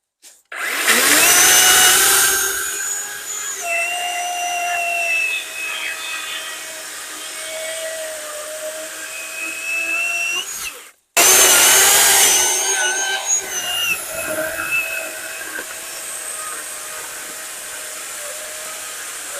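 Worx WG385E 16-inch cordless chainsaw's electric motor spinning up with a rising whine, then running as the chain cuts through a log. It stops abruptly about eleven seconds in and at once starts again for a second cut.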